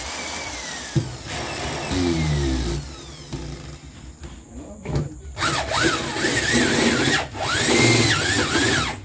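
Power drill run in short goes: its motor whine falls away as it spins down, with a sharp knock about a second in and another at five seconds. Then it runs loud with the pitch wavering up and down. The drill is not behaving as it used to, and its owner can't tell why.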